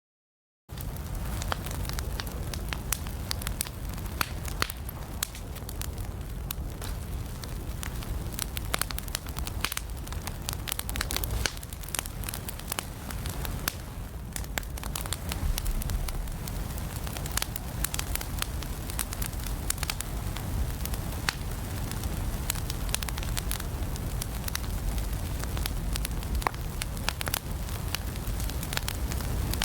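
Wood fire burning in a fireplace, crackling with frequent irregular sharp pops over a steady low rumble of flames. It starts in after a brief moment of silence.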